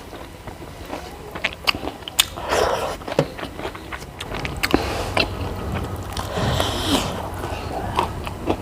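Close-up eating sounds: chewing and mouth noises with many short, sharp clicks and a few soft, noisy stretches.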